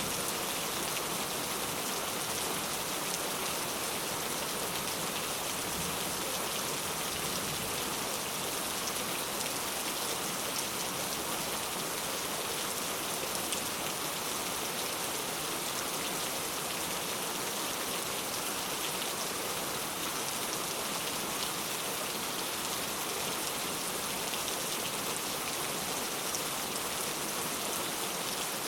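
Steady rain falling, a constant hiss of rain with fine pattering of drops, unchanging throughout.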